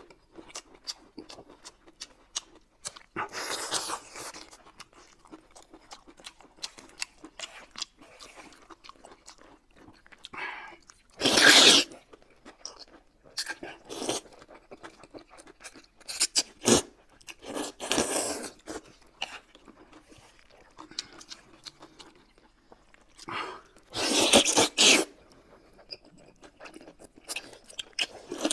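Close-miked eating: several loud slurps of wide flat noodles, with chewing and small wet clicks in between.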